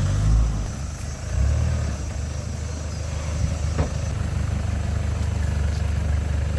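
Off-road 4x4 engine running with a low rumble. It swells near the start and again about a second and a half in, then holds steady, with one brief sharp tick near the middle.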